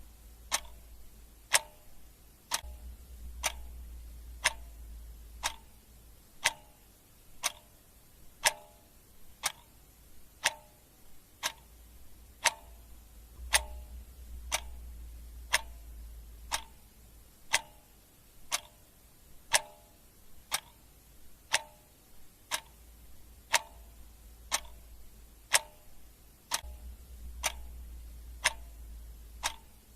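Clock ticking steadily, one sharp tick about every second. A faint low hum comes and goes underneath.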